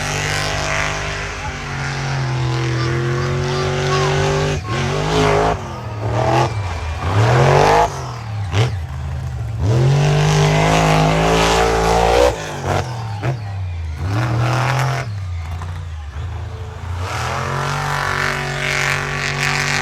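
Monster truck engine revving hard, its pitch climbing and falling again and again, with brief cut-outs in between as the throttle comes on and off.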